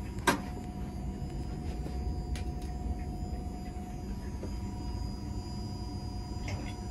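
Passenger train running, heard from inside the carriage: a steady low rumble with a steady electrical hum over it. One sharp knock about a third of a second in.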